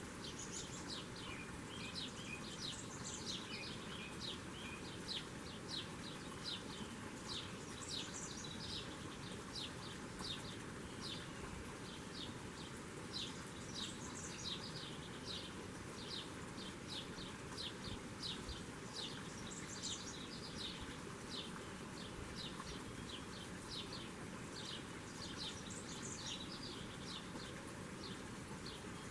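Small birds chirping: many short, high chirps a few times a second, in brighter flurries every few seconds, over a steady background hiss.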